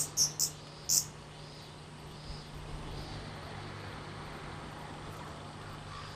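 Quiet outdoor background: four short high chirps within the first second, then only a faint steady hum.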